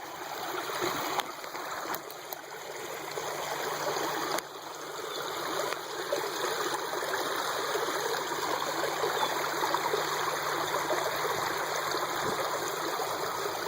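Water flowing into a pond in a steady stream, growing louder over the first several seconds and then holding even.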